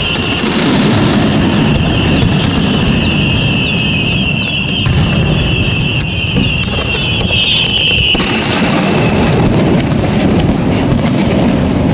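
Fireworks display going off continuously: a dense, unbroken rumble of overlapping bursts, with a high hiss over it that cuts off about eight seconds in.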